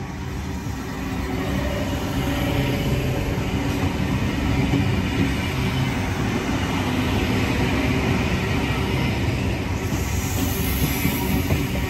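Sydney double-deck suburban electric train running through the station past the platform: a steady rumble of wheels on rail and running gear. It grows louder over the first couple of seconds as the cars draw alongside, and a high hiss joins near the end.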